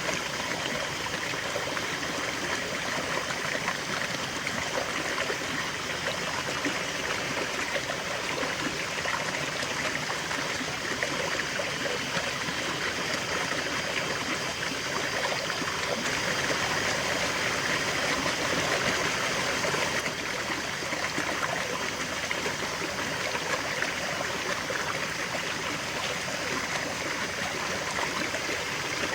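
River flowing steadily, water running and trickling over rocks in a continuous rushing babble.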